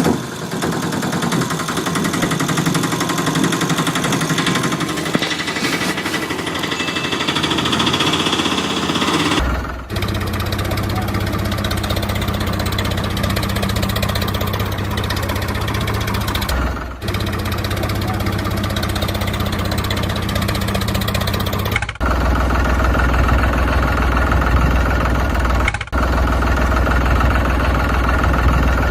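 Small tractor engine running steadily, heard across several short clips that are joined with abrupt cuts.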